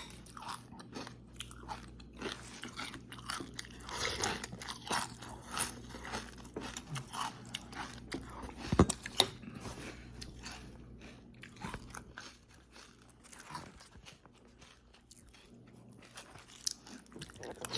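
Close-up crunching and chewing of dry cereal with milk, many irregular crisp crunches, busiest in the first half, with one sharper crack about nine seconds in.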